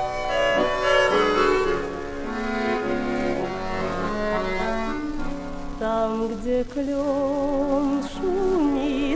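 Vinyl record of a Russian song: an orchestral introduction with bowed strings, then a woman's voice starts singing with a strong vibrato about seven seconds in.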